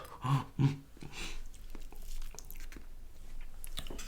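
Close-miked chewing of food, with scattered small wet mouth clicks. Two short hummed "mm" sounds come in the first second.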